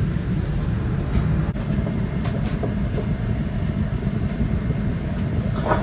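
Steady low rumble and airflow hiss inside the cabin of a Boeing 787-9 parked at the gate, with a couple of faint clicks a little over two seconds in.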